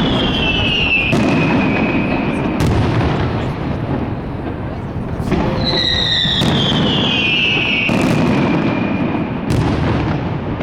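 Aerial fireworks going off: a steady crackling rumble broken by about six sharp bangs, with two long whistles falling in pitch, one at the start and one from about halfway.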